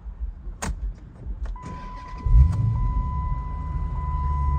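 Cold start of a 2011 Dodge Challenger SRT8's 6.4-litre 392 Hemi V8: after a few clicks and a steady high tone, the engine catches with a loud flare about two seconds in, then settles into a steady, deep idle.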